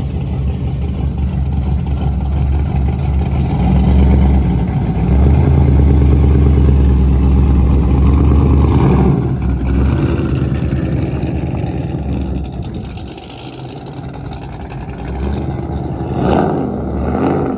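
Catless 2012 Chevrolet Camaro SS V8 exhaust running loud at low revs. It grows louder about four seconds in and fades after about ten seconds, with a short rev near the end.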